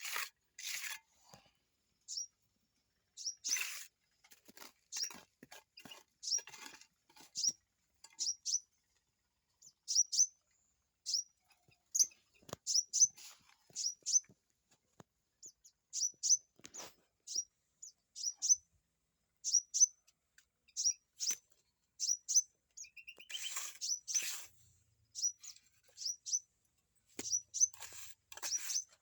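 Small cage birds giving short, high chirps, one every half second to a second. Scattered taps and scrapes of handwork sound between them, busiest about 3 to 4 seconds in and again about 23 to 24 seconds in.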